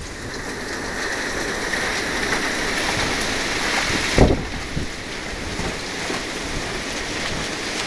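Steady rain falling, with a dull thump about four seconds in.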